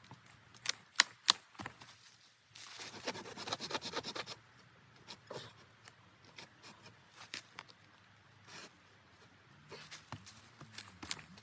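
A few sharp knocks, then a quick run of rapid chopping or cutting strokes lasting about two seconds, followed by scattered small clicks and taps.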